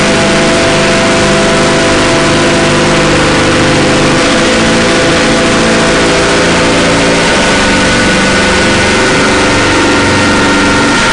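Harsh noise drone music: a dense, loud wall of distorted noise over sustained droning tones, which step to new pitches a few times.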